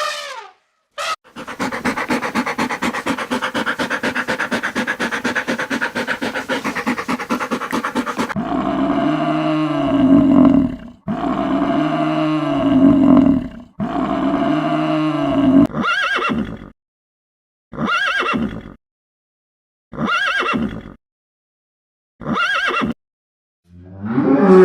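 An equine animal whinnying and neighing. A long, rapidly pulsing call runs for about seven seconds. The same pitched call then comes three times in a row, followed by short calls about two seconds apart.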